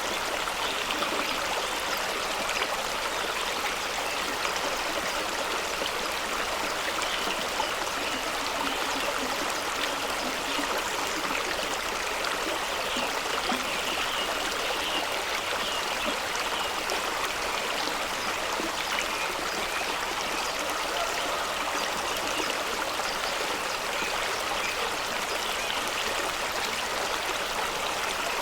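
Fast-flowing stream rushing and splashing over rocks in a steady wash of water noise.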